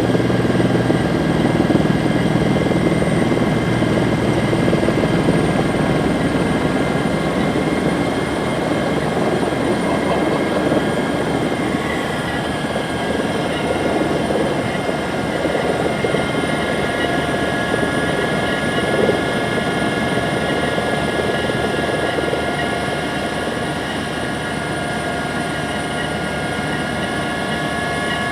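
Helicopter heard from inside the cabin in flight: a steady engine and rotor drone with high, even whining tones on top. It eases off a little in the second half.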